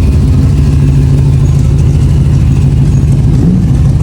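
Car engine idling, steady and loud, with a slight rise in pitch about three and a half seconds in.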